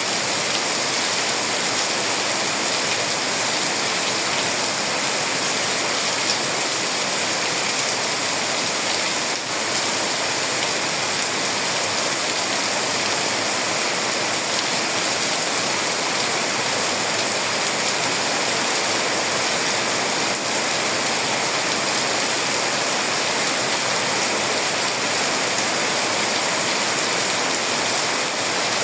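Steady, heavy rain falling and pattering on surfaces, a dense even hiss with no let-up.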